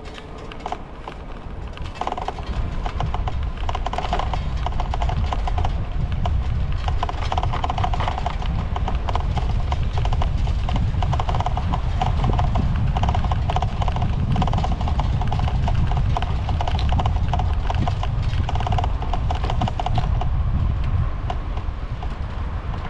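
Bicycle in motion: a rapid, irregular run of clicks and rattles over a low wind rumble on the microphone. The clicking starts about two seconds in and eases off near the end.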